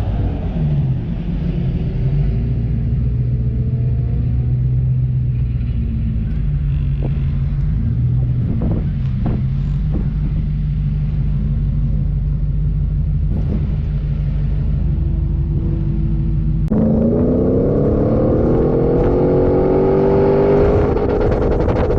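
Off-road 4x4 engine running while driving, its pitch rising and falling with the throttle, with a few knocks around the middle. About three-quarters of the way through it suddenly gets louder and revs up, its pitch climbing.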